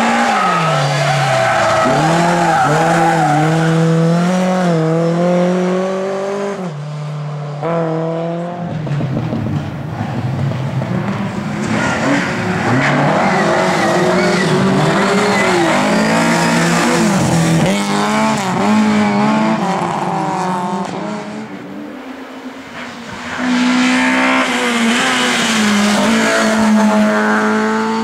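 Racing Lada saloon cars' engines revving hard, the pitch climbing and dropping again and again as they accelerate, brake and shift, with more than one engine heard at once. The sound eases off briefly a little past three-quarters of the way through, then picks up again.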